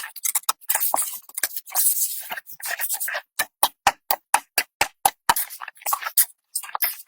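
A rapid, irregular series of sharp clicks and knocks mixed with short scraping sounds, as of hard objects being handled or struck.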